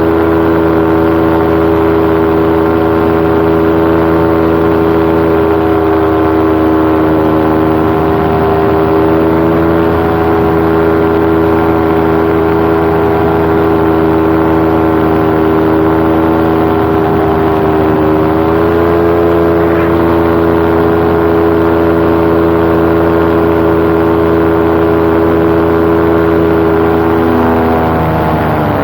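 Paramotor engine and propeller running at steady power, a constant droning tone that rises slightly about two-thirds of the way through and dips in pitch near the end.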